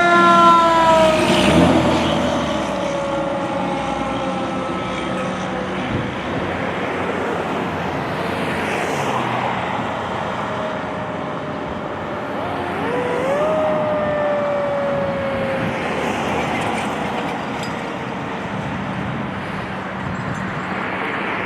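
Fire apparatus siren fading away, its wail sliding slowly down in pitch over the first few seconds, over steady street traffic noise. About halfway through, a fainter siren wail rises sharply, then slides slowly down and fades.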